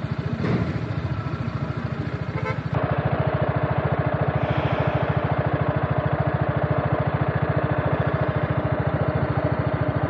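BMW GS motorcycle engine idling steadily, with an even low pulsing beat.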